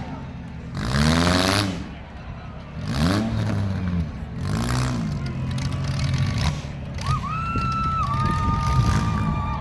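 Compact demolition derby car engines revving in repeated bursts, each rising and falling in pitch. A steady high tone joins about seven seconds in.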